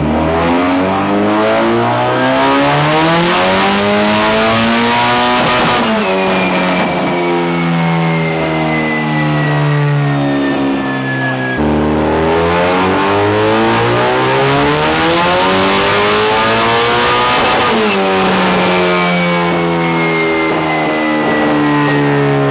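Turbocharged SR20DET engine in a drift car making two full-throttle pulls on a chassis dyno. Each time the revs climb steadily for about six seconds, then drop away, leaving a high whine that winds slowly down.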